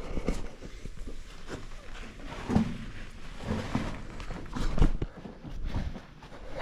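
Irregular scuffs and knocks of a person moving over the rock floor of a small cave, the loudest about two and a half and nearly five seconds in.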